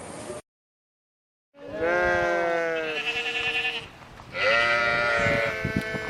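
Goat bleating twice, starting about a second and a half in: two long, wavering calls of about two seconds each.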